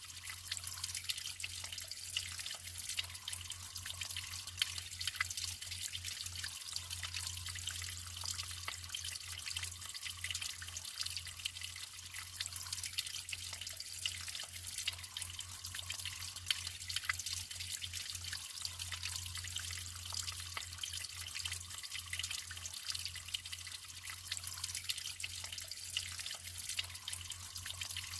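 Naturally flowing water trickling and splashing steadily, with fine dripping detail, over a low steady hum.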